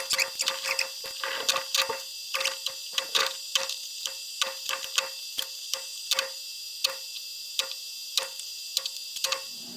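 Small, sharp clicks, irregular, about three a second, of a screwdriver and plastic and metal plug parts while the wires are fastened into the terminals of a 20-amp twist-lock plug.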